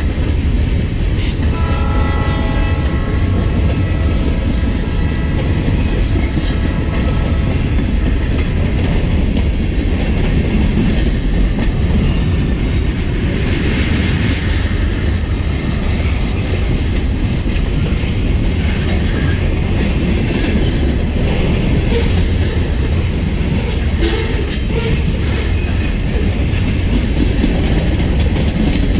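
A long Norfolk Southern freight train rolling past close by at speed, a steady loud rumble of steel wheels on rail from its string of hoppers, tank cars and boxcars. A brief high wheel squeal comes about twelve seconds in.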